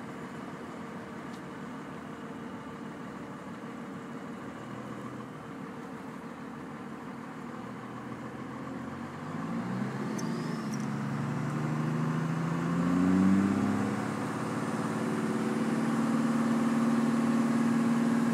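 Vehicle engine heard from inside the cabin, running low for the first half, then accelerating about halfway through with its pitch climbing twice and falling back between climbs, as if shifting up, before it settles into a steady drone as it gets louder.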